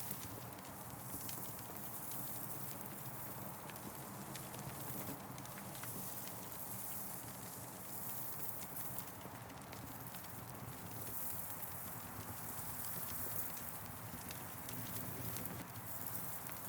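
Wood fire crackling: irregular sharp pops and snaps over a steady hiss, with a low rumble beneath.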